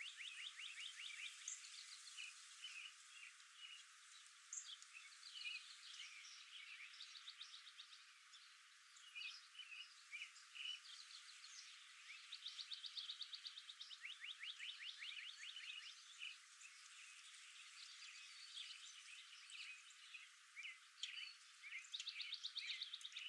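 Faint outdoor birdsong: a rapid pulsed trill, first higher and then dropping lower, sung at the start, again about twelve seconds in and near the end, with scattered short chirps between.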